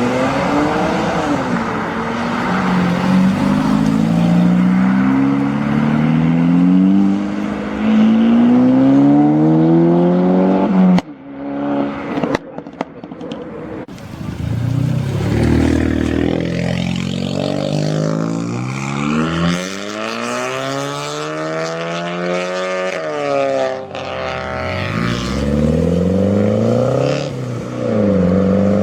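Modified cars accelerating hard and revving. For about the first eleven seconds one engine climbs in pitch again and again, dropping back at each gear change, and cuts off suddenly. Then further engines rev up and down in long rising and falling sweeps.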